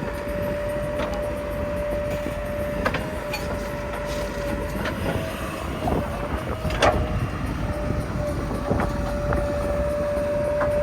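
JCB 3DX backhoe loader's diesel engine running steadily with a constant high whine, and scattered clanks and knocks as it works, the loudest about seven seconds in.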